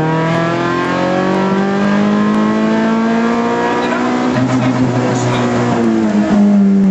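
Rally car engine heard from inside the cabin at full stage speed, its pitch climbing steadily under load for about four seconds, then easing and falling away near the end as the driver comes off the throttle.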